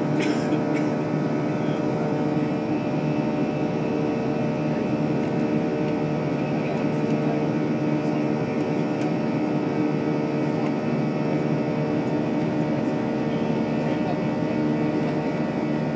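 Steady drone of a Boeing 737 airliner's jet engines and rushing air, heard from inside the passenger cabin in flight.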